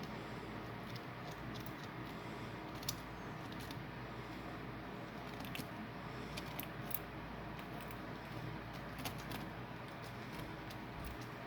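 Eating sounds: a handful of small, sharp clicks and crunches scattered over a steady hiss.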